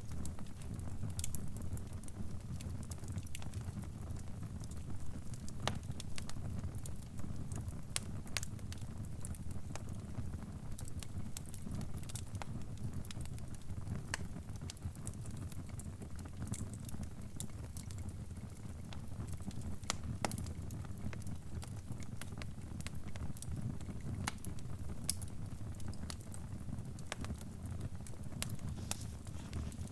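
Fire crackling: irregular sharp snaps and pops over a steady low rumble of flames.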